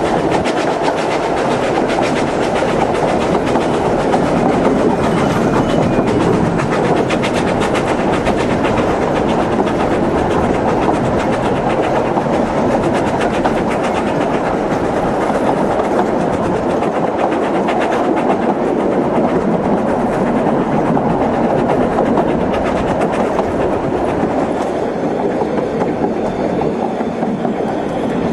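Isle of Man Steam Railway narrow-gauge train running along the line, heard from aboard: a steady running noise of wheels on the rails with a fast, continuous rattle of clicks.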